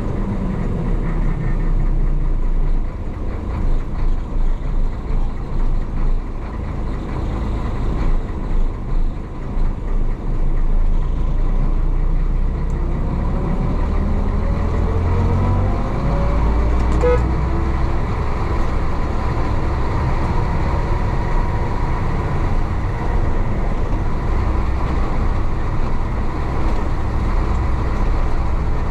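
The 1966 Isuzu BXD30 bonnet bus's DA640 diesel engine running under load. Its pitch climbs steadily as the bus accelerates, then falls back about halfway through.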